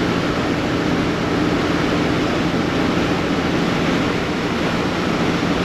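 Semi truck running at steady speed, heard from inside the cab: a constant engine drone with a steady low hum under road and wind noise.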